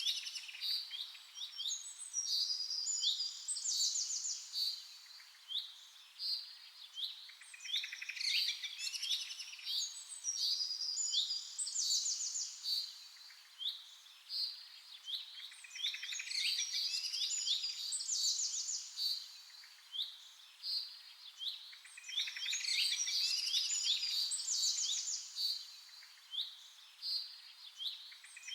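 Many small birds chirping and twittering in a busy chorus of short high notes and quick trills. The chorus swells and eases in waves about every seven to eight seconds.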